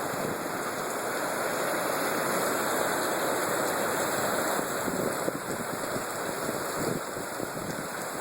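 Heavy rain and strong, gusting storm wind: a steady rushing hiss that eases slightly and turns more uneven about five seconds in.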